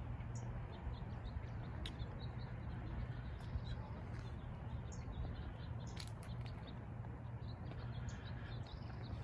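Small birds chirping in short, scattered calls over a steady low hum, with a few sharp clicks.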